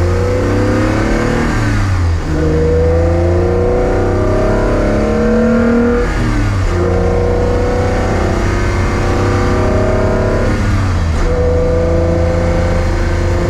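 Toyota MR2 Spyder's V6 engine accelerating through the gears, its pitch climbing and then dropping back at upshifts about 2, 6 and 11 seconds in.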